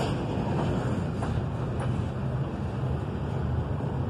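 Double-stack intermodal well cars of a freight train rolling past: a steady low rumble of steel wheels on rail, with a couple of faint clicks.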